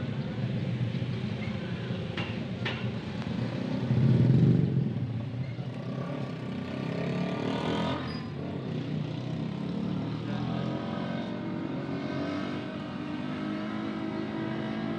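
Motor vehicle engines running, swelling louder about four seconds in, with two sharp knocks a little after two seconds.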